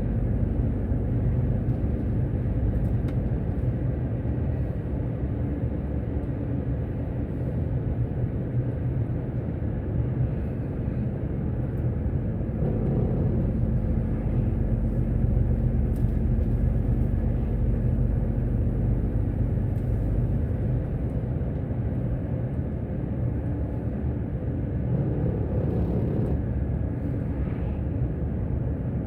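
Truck driving along at a steady speed, its engine and road noise making a low, even rumble.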